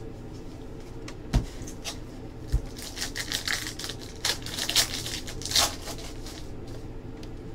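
Two sharp knocks, then a few seconds of crinkling and tearing from a trading-card pack wrapper being opened and handled, over a steady low hum.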